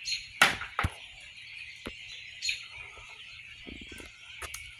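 Berries knocked loose by birds dropping onto a screen porch, heard as a scattered series of sharp knocks. The loudest comes about half a second in.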